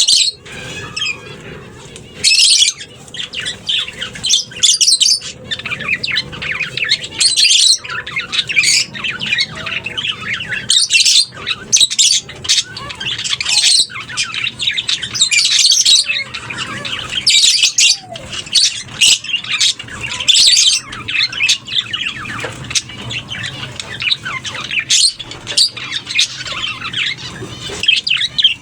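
A colony of lovebirds squawking and chattering, many high-pitched calls coming fast and overlapping without a break.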